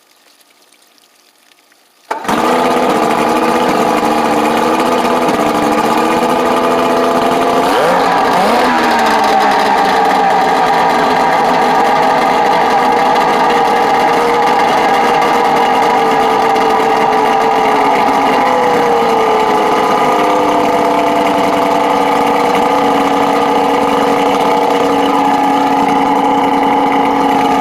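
Outboard motor running on a clamshell flush muff fed by a water hose, coming in abruptly about two seconds in and then running loudly and steadily. It revs briefly about eight seconds in and settles a little lower in pitch later on.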